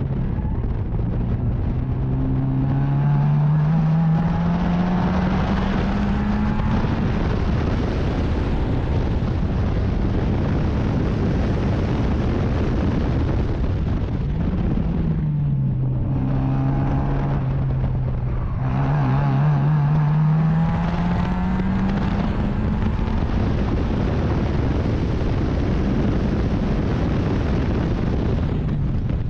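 Racing sports car engine heard onboard under wind noise. It accelerates with its pitch climbing steadily, then drops off with a few quick downshift blips about halfway through, and pulls hard again.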